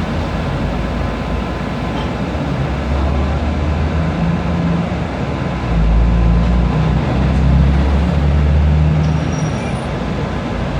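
Steady street noise with a large vehicle's low engine rumble building and passing, loudest about six to nine seconds in.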